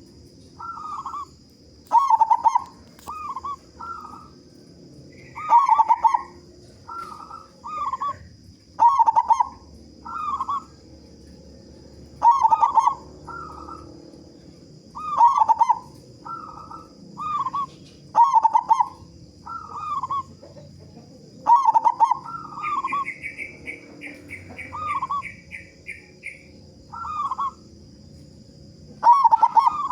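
Zebra dove (perkutut) cooing over and over: short phrases of rolling coos, each note dipping in pitch, one phrase every couple of seconds.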